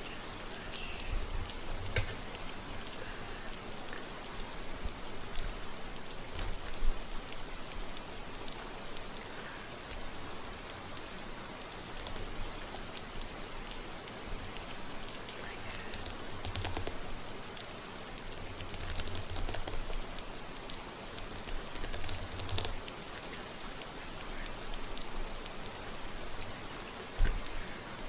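Steady rain, with scattered soft crackling rustles of fingers running through a mannequin head's hair, bunched in a few clusters past the middle.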